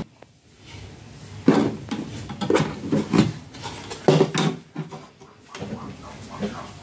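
Plastic TV casing and parts being handled and knocked while an LED TV is taken apart: irregular clicks, knocks and rattles, several in quick succession about a second and a half in and again around four seconds in.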